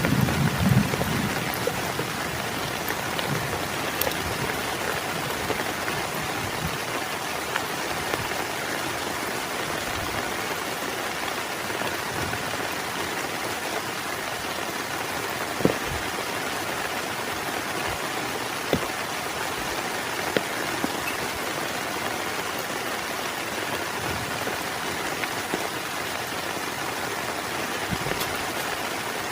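Heavy rain falling steadily, with the last of a thunder rumble dying away in the first second or so. A few louder single drops tick now and then.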